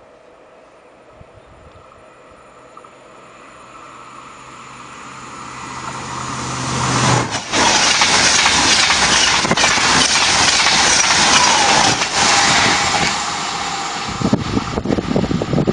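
TGV Duplex high-speed trainset approaching and passing at speed. A low hum and rushing noise grow louder over the first several seconds. Then comes a loud rush of wheels and air for about five seconds, which fades once the train has gone by.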